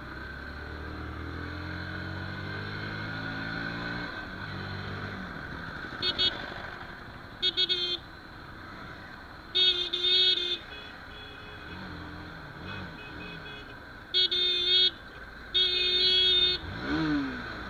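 Bajaj Pulsar NS160's single-cylinder engine rising in revs as it accelerates, then vehicle horns honking in traffic: a short toot, three quick beeps, and three longer blasts.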